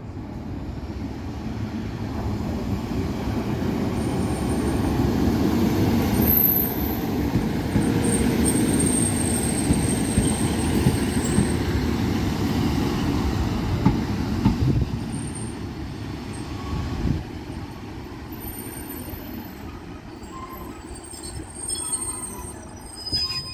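A train passing on the tracks: a heavy rumble that grows louder, holds, then fades away, with thin high-pitched wheel squeals near its loudest part.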